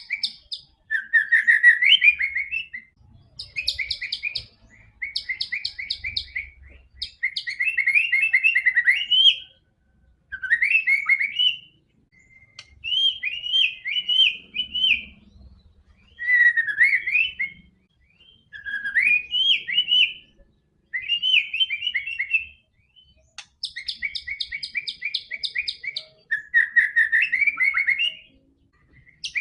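White-rumped shama (murai batu) singing vigorously: a run of short phrases of fast trills and gliding whistled notes, each a second or two long, with brief pauses between them.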